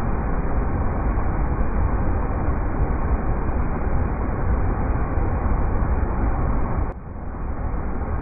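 River rapids: fast water rushing steadily, heaviest in the low end. About seven seconds in it drops suddenly and swells back within a second.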